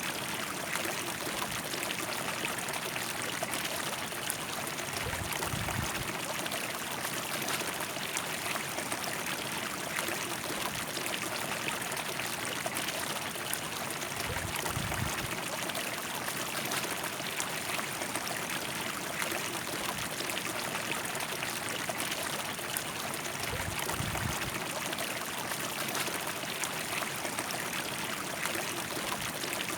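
River water running steadily in an even rush. Three brief low rumbles come about nine seconds apart.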